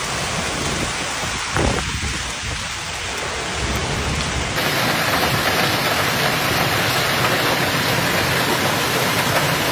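Heavy rain pouring down in a thunderstorm downpour, a dense steady hiss; about halfway through the sound changes abruptly to a brighter, hissier downpour.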